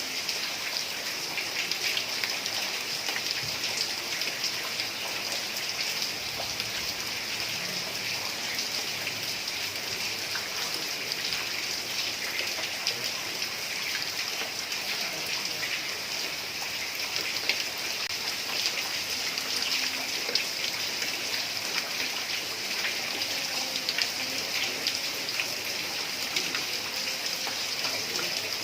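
Heavy rain falling on a tiled roof: a steady hiss dotted with the ticks of single drops striking the tiles.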